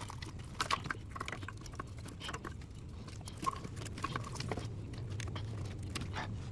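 Irregular light clicks and knocks of hand work in an engine bay, wiring and lines being worked loose around the intake, over a steady low hum.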